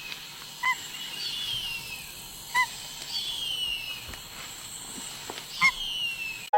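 Bird calls: several thin whistles that fall in pitch, and three short, sharper calls about two seconds apart, louder than the rest.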